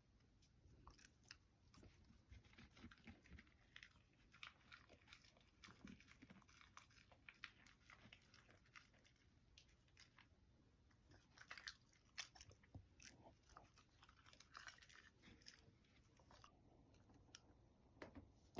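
A Shiba Inu chewing and crunching food: faint, irregular crunches and bites.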